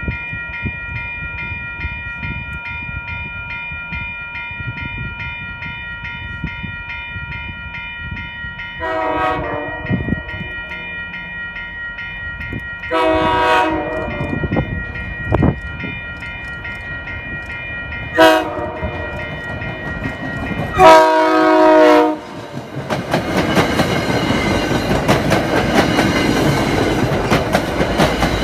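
A railroad crossing bell rings steadily while an MBTA commuter train approaches. The locomotive sounds its horn in the grade-crossing pattern of long, long, short, long. The train then passes over the crossing with loud wheel-on-rail noise and clacking.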